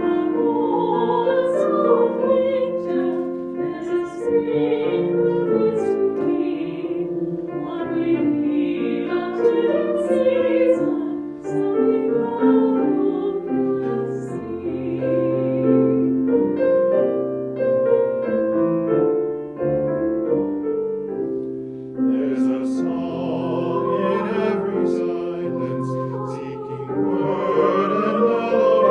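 Classical-style singing with vibrato, accompanied by piano, in a slow sustained piece of church music.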